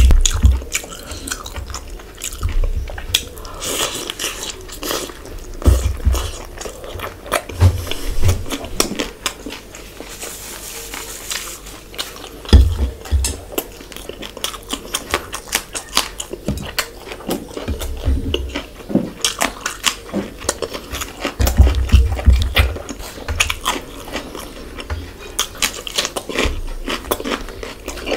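Wet chewing, lip smacks and crunching from someone eating a spicy fish-head curry by hand, with dull low thumps now and then.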